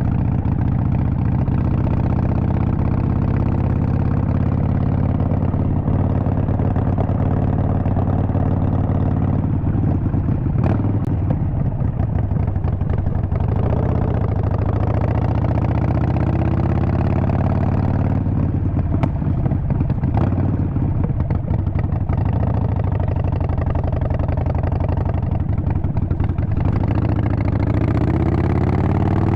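Harley-Davidson Sportster 48's air-cooled 1200 cc V-twin engine running steadily, with the pitch dipping and recovering a little before halfway and rising near the end as the throttle is opened, and a few sharp clicks along the way.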